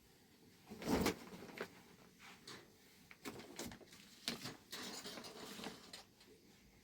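Scattered knocks and rustling: one louder knock about a second in, then a run of short clicks and rustles.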